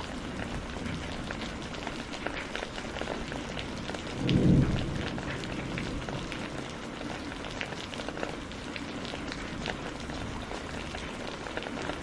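Steady rain falling, with close raindrops ticking through it. About four seconds in, a brief low rumble of thunder rises and fades within about a second, the loudest sound here.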